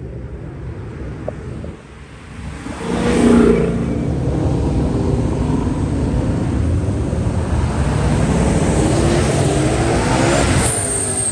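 Car engine revved hard as a car pulls out. The sound jumps sharply in loudness about three seconds in, then stays loud, with its pitch climbing near the end as the car accelerates.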